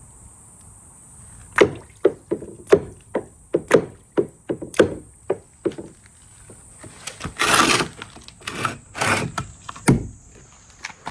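Marbles running down a handmade marble run track, a string of irregular clacks and knocks as they drop and bounce, with a longer rolling rumble about two thirds of the way through.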